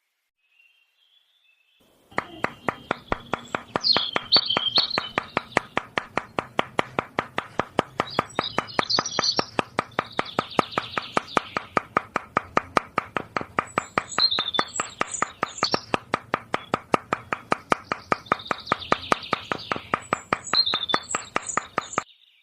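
A rapid, even mechanical clicking, about five clicks a second, starts a couple of seconds in and stops abruptly near the end. Birds chirp over it several times.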